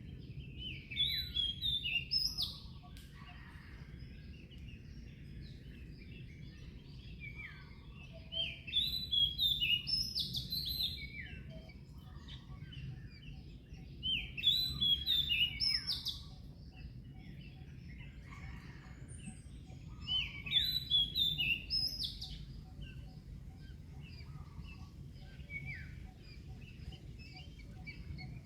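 A songbird singing the same short chirping phrase over and over, about every six seconds, over a steady low background rumble.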